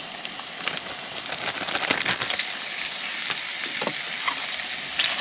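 Ground beef frying in hot rendered fat in a pan, a steady sizzle with many small crackles that grows louder about two seconds in.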